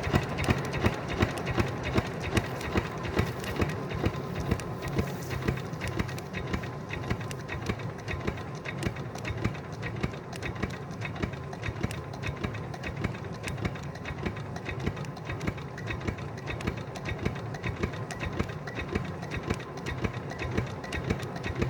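Lister 6 hp single-cylinder diesel engine running steadily, with an even, regular knocking beat.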